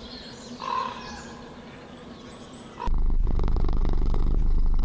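A faint short bird call, then about three seconds in a loud, low, fluttering domestic cat purr starts.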